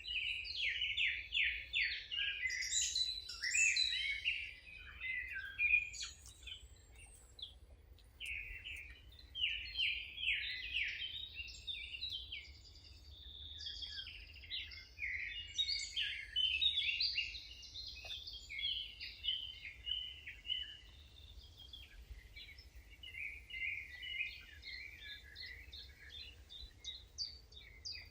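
Songbirds singing: bursts of rapid, chirping phrases, with brief pauses between them, over a faint low steady rumble.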